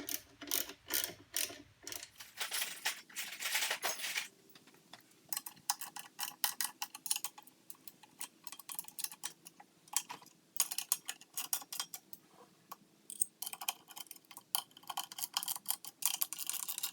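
Ratchet wrench clicking in quick runs with short pauses as bolts are tightened down.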